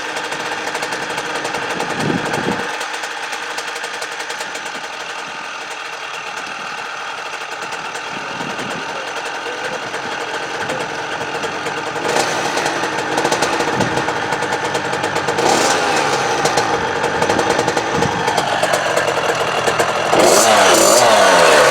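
2014 KTM 50 SX mini dirt bike's small two-stroke single running steadily. It gets louder near the end, with the pitch rising and falling as it is revved.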